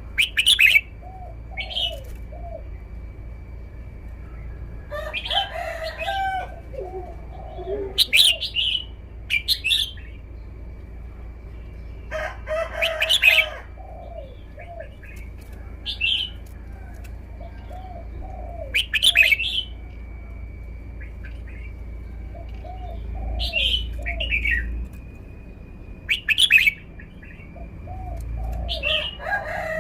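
Red-whiskered bulbul singing: short, loud, clear whistled phrases repeated every two to three seconds, over a softer run of lower warbling notes.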